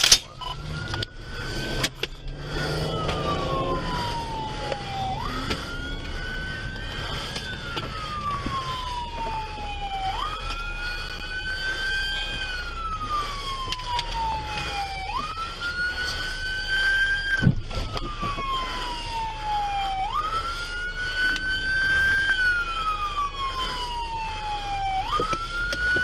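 Police car siren on a slow wail: each cycle rises quickly, then falls slowly, repeating about every five seconds. A few sharp knocks sound near the start and once about two-thirds of the way through.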